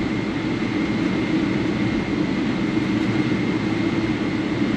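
Steady cabin noise inside a Boeing 777-300 on the ground just after landing: a low engine and airflow rumble with a thin, steady high-pitched tone over it.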